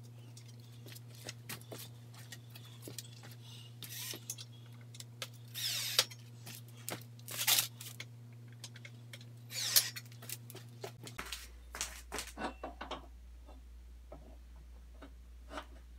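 Metal parts and small hardware of a miter saw stand being handled during assembly: scattered clinks and rattles with several short scrapes. A steady low hum runs underneath and drops in pitch about eleven seconds in.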